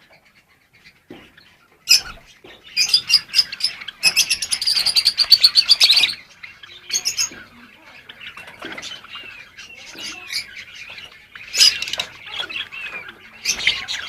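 Java sparrows chirping and calling: scattered bursts of high, quick notes, with a fast run of repeated notes about four to six seconds in and softer chirps between.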